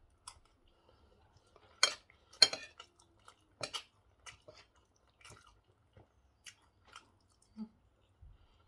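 Cutlery clinking and scraping against a dish of rice and stew, a few sharp clinks with the loudest about two seconds in, then lighter taps, with quiet chewing between.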